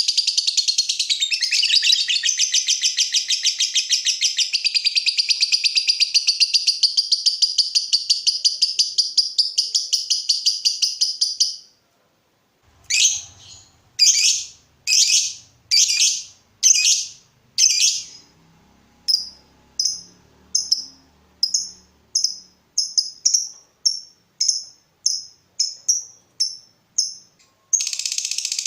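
Lovebird singing its long rapid chattering song (ngekek) for about twelve seconds, then stopping briefly. It gives a string of separate sharp chirps, first about one a second, then shorter and quicker. The long chatter starts again near the end.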